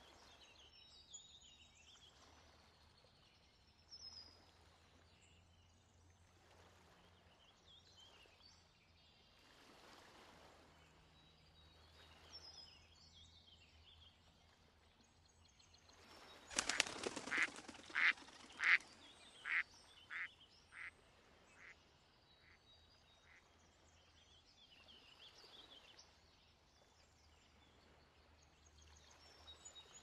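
A duck quacking about halfway through: a loud run of about ten quacks that grow softer and further apart, over faint songbird chirps.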